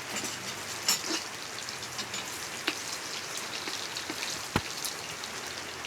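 Steady patter of rain with many small drips, and one sharper knock about four and a half seconds in.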